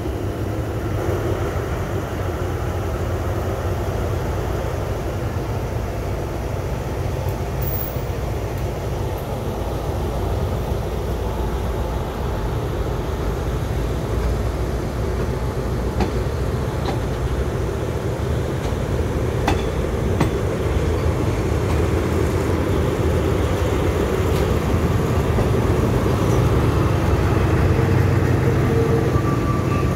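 Diesel-hauled passenger train moving slowly, heard from aboard: a steady low rumble of the locomotive and wheels on the rails that slowly grows louder, with a few sharp clicks past the middle.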